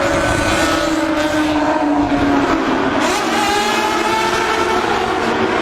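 Sport motorcycle engines running hard in a tunnel, echoing off the walls. The engine note drops over the first couple of seconds, then a fresh engine note comes in about three seconds in.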